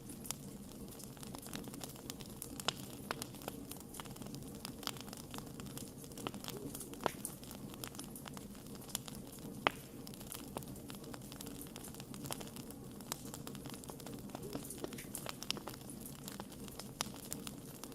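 Burning wood campfire crackling: irregular sharp pops and snaps over a steady low rush of flame, with a louder pop about ten seconds in.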